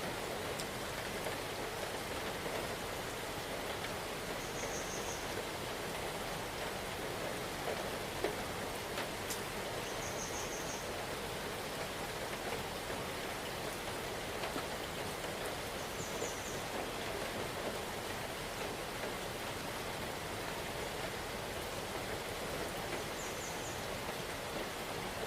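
Steady rain falling, an even hiss with a few single louder drops. A short high chirp sounds four times, about six seconds apart.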